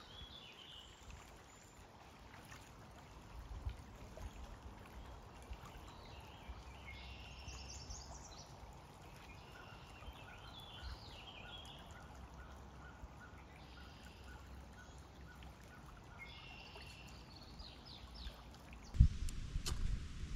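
Birds singing in short chirping phrases over a faint, steady outdoor background, with a repeated single note about twice a second through the middle. Near the end a few sudden, louder knocks and thumps break in.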